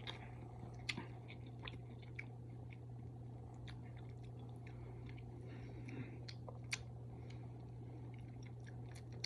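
A person chewing a mouthful of fried hot chicken sandwich, faint, with scattered soft clicks of the mouth and bread over a steady low hum.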